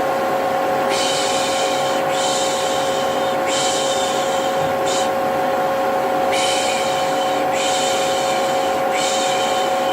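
Vacuum cleaner running with a steady hum, overlaid by a person's repeated "shh" shushing, about one drawn-out shush a second: a soothing white-noise track of the kind used to settle a baby.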